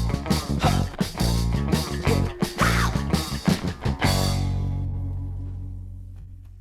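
Post-punk rock band with guitar and drums playing the song's closing bars. A final chord about four seconds in rings on and fades away.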